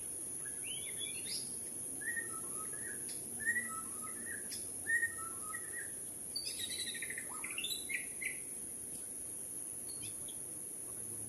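White-crowned shama singing: clear whistled phrases, a short two-note phrase repeated several times, then a quick run of varied notes about six seconds in. A steady high hiss runs underneath.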